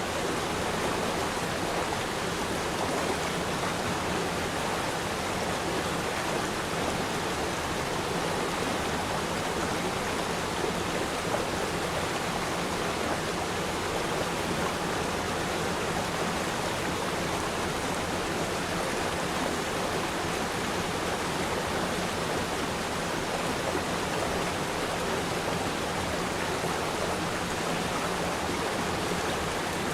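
Steady rush of a gentle river stream flowing.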